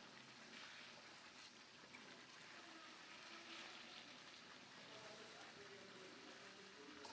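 Faint, steady sizzling of mutton leg pieces cooking in masala and oil in a steel kadai.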